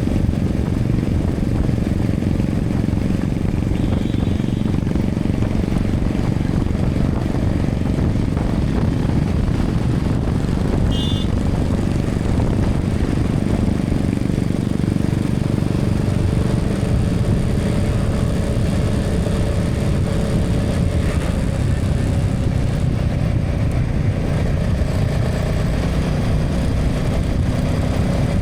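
Motorcycle engine running at steady cruising speed, heard from the rider's camera together with steady wind and road noise. Twice, a short high beep cuts through the rumble.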